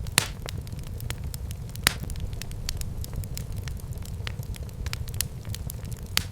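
Wood fire burning in a fireplace: a steady low rumble of the flames with irregular sharp crackles and pops, three of them louder, near the start, about two seconds in and near the end.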